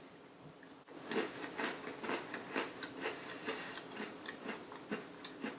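Close-miked chewing of an Oreo cookie: a run of irregular crunches that starts about a second in.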